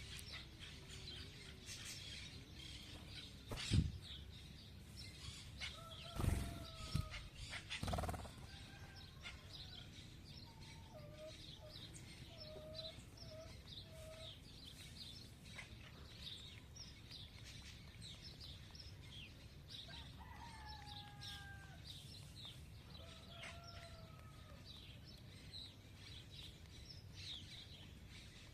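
Birds feeding: many short, high chirps go on all through, with lower, drawn-out calls now and then, some of them falling in pitch. A few loud thumps come in the first eight seconds, about four, six and eight seconds in.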